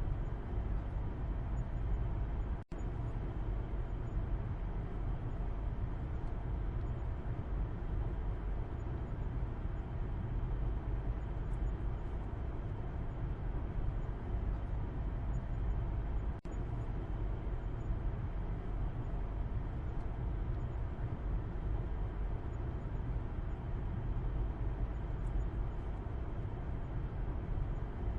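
Steady low road and engine rumble of a car driving, heard from inside the cabin in the back seat. The sound drops out for an instant twice, about 3 seconds in and about 16 seconds in.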